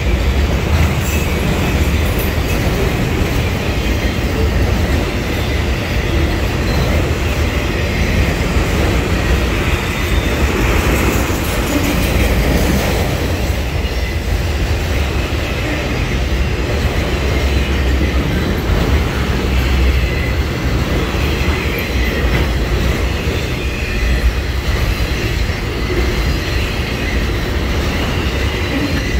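Autorack freight cars rolling past on steel wheels: a steady, loud rumble and clatter of wheels on the rails.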